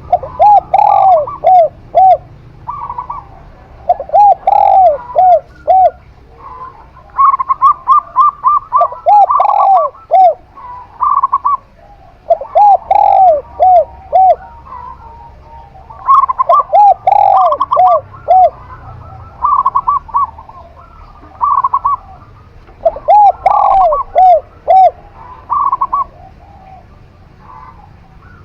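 A zebra dove (perkutut) and a spotted dove (tekukur) cooing in turn. Phrases of several quick coos come every few seconds, one voice pitched higher than the other.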